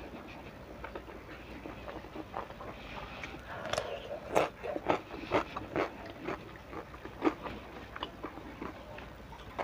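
Close-up mouth sounds of a person eating tempe in chili sambal with rice by hand: chewing with wet lip smacks and clicks, busiest from about three and a half to eight seconds in.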